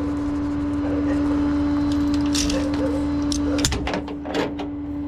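Tow truck running with a steady hum, and a few sharp knocks and clunks between about two and four and a half seconds in.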